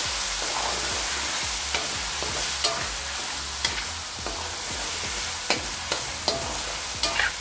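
Sliced onions and tomatoes sizzling in hot oil in a karahi, with ground spices just added, while a spatula stirs them, scraping and tapping against the pan every so often.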